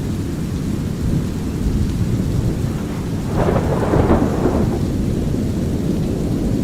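Thunderstorm ambience: a steady low brown-noise rumble with light rain, and a louder roll of thunder that swells a little past halfway and fades over about a second and a half.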